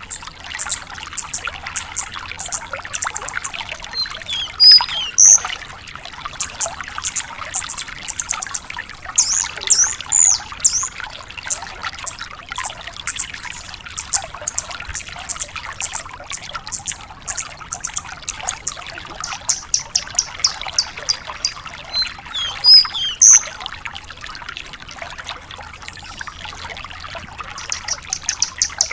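Branjangan lark singing: long strings of rapid, high, clipped notes broken by a few sweeping whistled phrases, the loudest about five seconds in and again near the middle. A steady trickle of running water sounds underneath.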